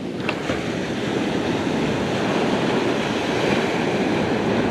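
Ocean surf washing onto the beach: a steady rushing noise that slowly grows louder.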